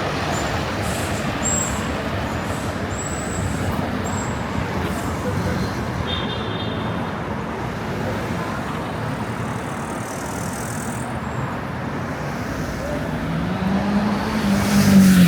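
Street traffic: a steady wash of passing cars and engines, with one vehicle's engine growing louder near the end.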